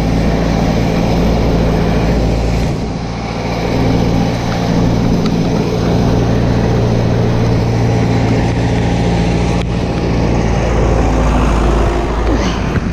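Vehicle engine running steadily, a low even drone with a slight dip about three seconds in.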